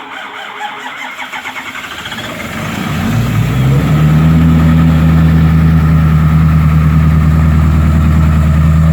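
2012 Ford F-350's 6.7 L Power Stroke V8 turbodiesel, deleted and straight-piped, cold-started at −15 °F: the starter cranks with a steady pulsing for about three seconds, a little slow, then the engine catches and settles into a loud, steady idle.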